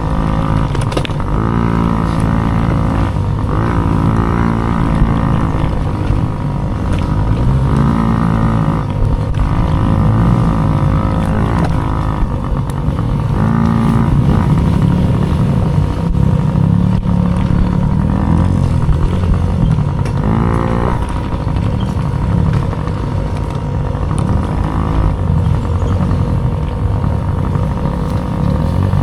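Dirt bike engine racing, its pitch climbing and dropping again and again as the throttle is opened and shut.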